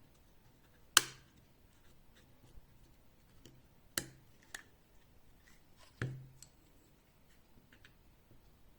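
Glock 44 pistol parts being handled and fitted together: three sharp clicks, about one, four and six seconds in, the first the loudest, with light ticks between them.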